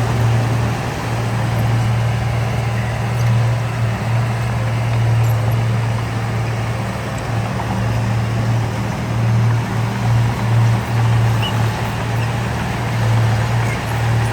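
Diesel engine of heavy earthmoving machinery running steadily, a strong low drone that wavers slightly in level.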